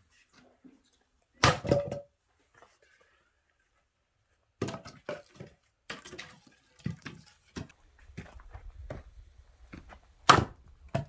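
An axe splitting oak firewood: two heavy strikes, about a second and a half in and near the end, with a run of lighter wooden knocks between them.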